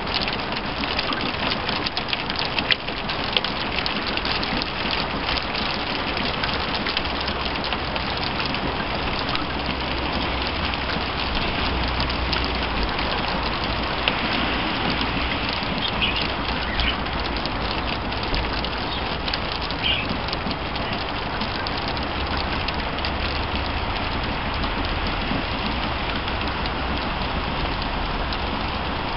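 Heavy rain falling steadily, with single drops striking close by, thickest in the first few seconds, and a low rumble underneath at times.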